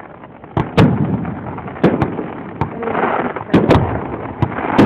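Fireworks display shells bursting in a string of sharp, loud bangs, about eight at irregular intervals, starting about half a second in and coming thicker in the second half.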